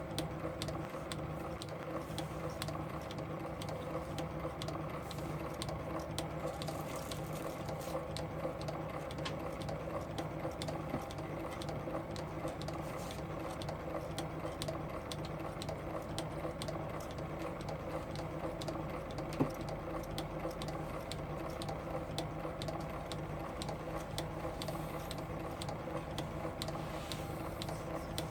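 8mm film projector running: a steady motor hum with fast, even clicking of the film advance.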